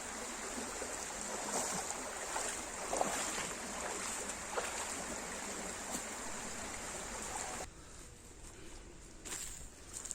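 Running stream water rushing steadily, cutting off suddenly about three-quarters of the way through to a much quieter background with a few faint knocks.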